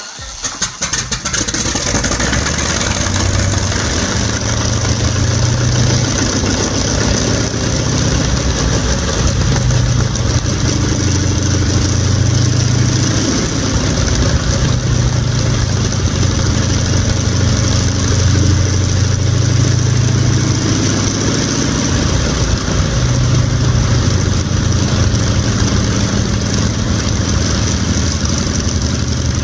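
An old engine running steadily.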